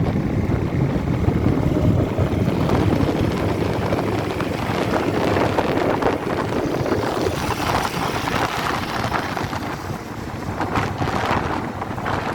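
Motorcycles running in a large convoy, largely masked by wind buffeting the microphone as it moves along with them.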